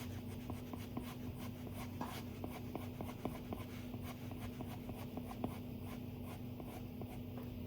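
Stylus drawing on an iPad screen: the tip makes many short, quick taps and scratching strokes on the glass, over a faint steady hum.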